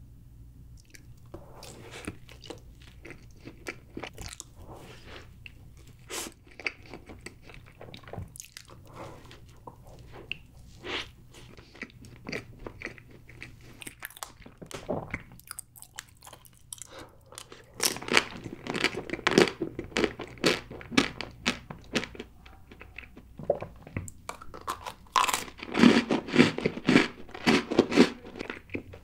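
Close-miked chewing of chocolate cake and chocolate sweets, with crisp, crunching bites. The chewing gets louder and busier in two spells in the second half.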